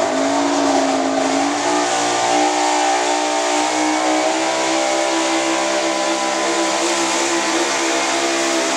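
Gasoline V8 of a 4x4 pulling truck running hard at high revs under load during a sled pull. Its pitch holds nearly steady, dipping slightly in the first second and then creeping up slowly.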